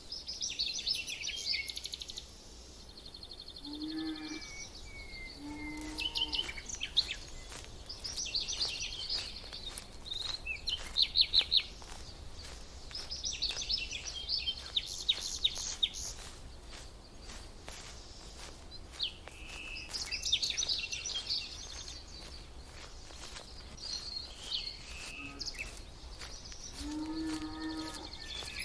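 Small birds chirping and trilling in short high phrases, one after another. A lower-pitched call from another bird comes in twice, a few seconds in and near the end.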